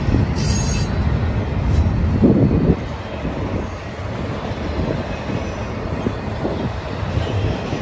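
Double-stack intermodal container train rolling past, its wheels on the rails making a steady low rumble that eases a little about three seconds in.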